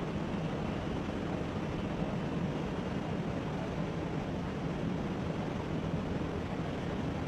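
Steady drone of a news helicopter's engine and rotors, heard as even cabin noise without a distinct beat.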